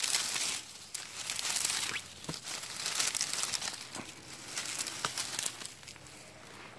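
Dry dead fern fronds and undergrowth being grabbed and pulled up by hand, rustling and crackling in irregular bursts, with a few sharp snaps.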